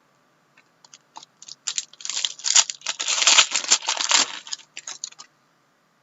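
Plastic wrapper crinkling and tearing while trading cards are handled, with scattered clicks before and after the loudest stretch in the middle.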